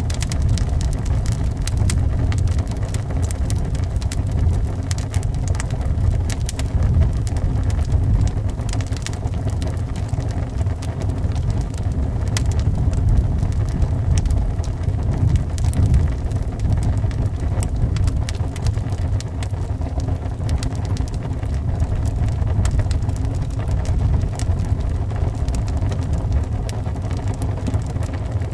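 Wood fire crackling with many small, irregular pops over a steady, loud low rumble of wind.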